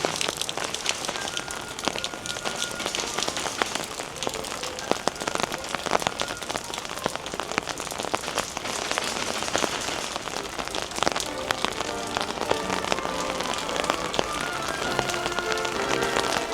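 Steady rain with many sharp drop taps, as heard from under an umbrella. Soft music with held tones comes in near the end.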